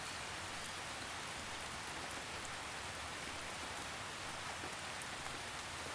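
Steady rainfall pattering on leaves and the ground, a soft even hiss with scattered faint drops.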